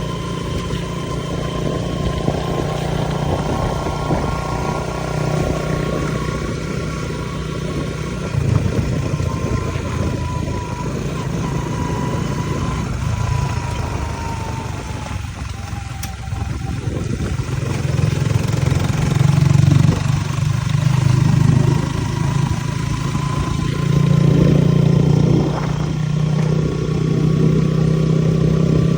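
Rice harvester's engine running steadily, with a faint steady whine above it; it grows louder about two-thirds of the way through.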